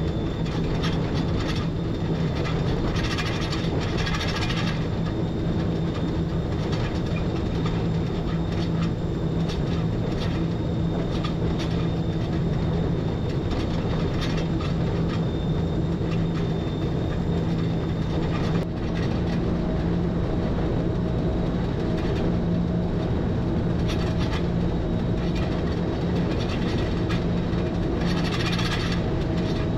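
Electric rack train of the Schynige Platte Railway heard from the driver's cab: a steady running hum with a low tone, broken by short stretches of higher-pitched noise about four seconds in and again near the end.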